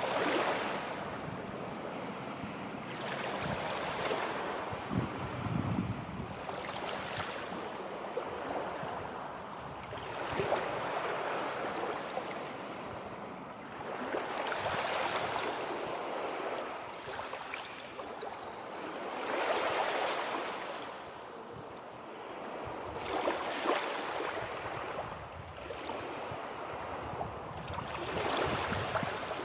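Sea waves breaking and washing onto the shore, each surge swelling and hissing away every few seconds.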